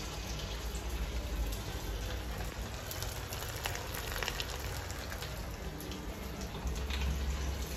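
Rava vada (semolina fritters) deep-frying in a wok of hot oil, sizzling steadily with scattered crackles and pops.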